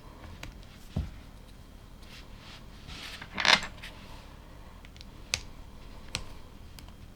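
LEGO plastic pieces being handled and clicked together: a dull knock about a second in, a short loud rattle of pieces near the middle, and two sharp clicks near the end.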